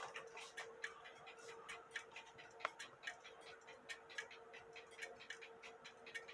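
Movement of an 1880 Alexander Fleig hunter's cuckoo clock ticking steadily and faintly on a test stand, its escapement running with the beat set close, over a faint steady hum.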